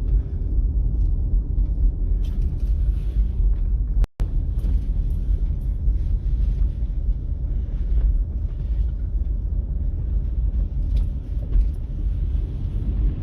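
Car driving slowly: a steady low rumble of engine and road noise, with a momentary gap about four seconds in.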